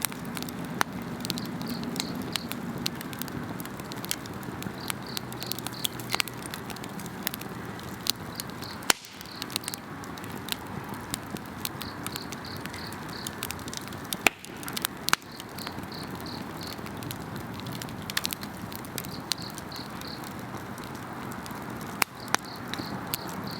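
Wood fire crackling, with many small sharp snaps over a steady hiss and a few louder pops, about a third of the way in, at two-thirds and near the end. Insects chirp high above it in repeated pulsing trills.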